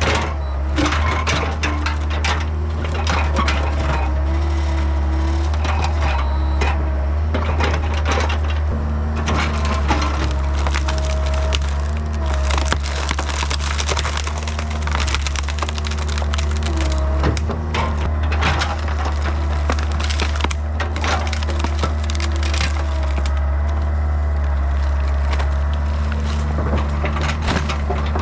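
Yanmar B50 excavator's diesel engine running under hydraulic load, its pitch shifting as the controls are worked, while hickory wood cracks and splinters in its grip. The crackling comes in many sharp snaps throughout.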